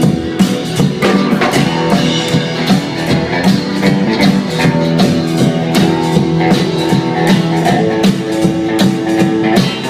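Live rock band playing an instrumental passage without vocals: guitar chords over a steady drum-kit beat.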